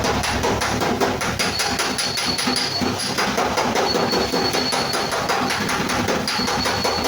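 Rapid, even metal tapping on a steel body panel, about six strikes a second, with a high ringing tone from the sheet metal coming and going.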